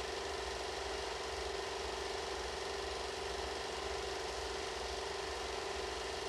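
A steady mechanical hum holding one fixed tone, over a fast, even low rattle and hiss, unchanged throughout.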